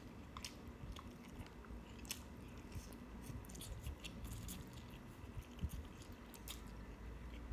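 A person chewing food close to the microphone, with irregular short wet mouth clicks and smacks.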